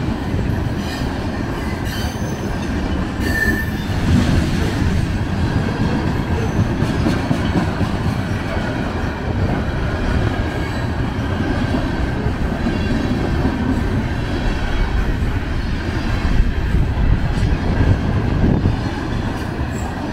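CN freight train of covered hopper cars rolling past at close range: a steady noise of steel wheels running on the rails.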